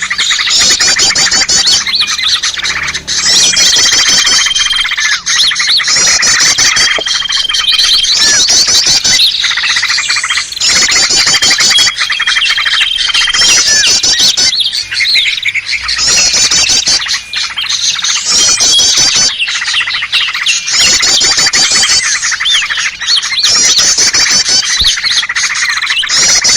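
A loud, dense mix of small songbirds calling over one another, as used for a bird-luring recording. Rapid chattering phrases repeat every second or two, with short level whistles among them.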